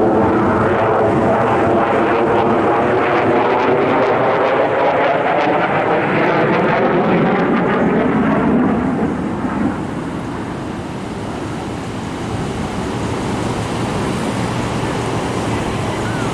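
Airplane flying past, loud, its engine sound gliding down in pitch as it goes by, then fading about ten seconds in to a quieter steady rumble.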